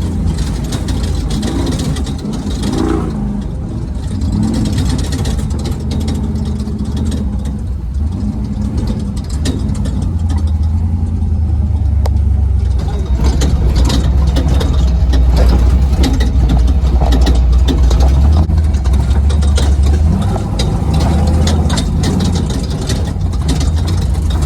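Race truck's engine running under load while driving off-road, getting louder and harder-driven about halfway through before easing back near the end, with frequent sharp clicks and knocks over the engine.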